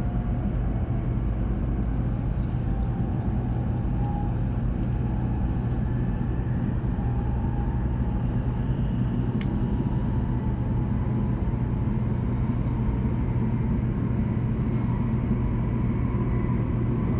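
A Shinkansen train's passenger cabin at speed: a steady low rumble and hiss of the running train, with a faint wavering tone around 1 kHz. A single sharp click comes about nine and a half seconds in.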